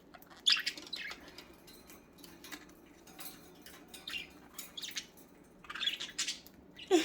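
Pet budgies chirping and squawking in short scattered bursts while squabbling, loudest about half a second in and again around six seconds in, with faint light clicks between the calls.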